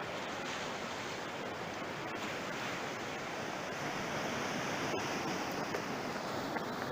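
Sea surf washing on the shore: a steady rushing noise that swells slightly about two thirds of the way in.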